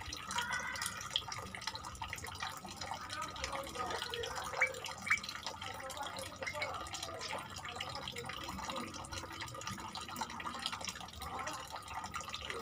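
Small birds chirping: a busy run of short chirps and twitters, with two sharper, louder calls around five seconds in.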